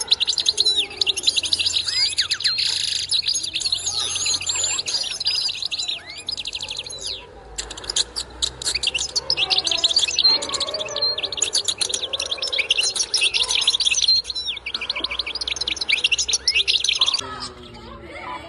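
Many small caged birds chirping and twittering rapidly all at once, breaking off briefly about seven seconds in and stopping abruptly near the end.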